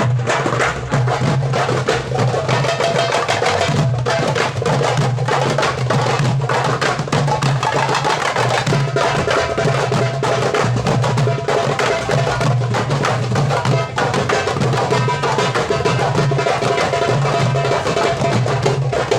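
Several darbukas (goblet drums) played together in a fast, dense rhythm, with sharp rim and center strokes running without a break. Steady held pitched notes sound underneath the drumming.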